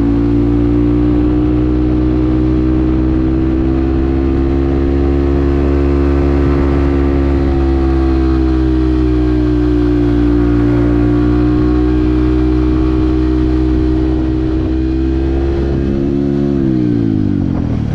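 Yamaha WR155R's single-cylinder engine running at steady riding revs, its pitch easing slightly up and down. Near the end the pitch falls steadily.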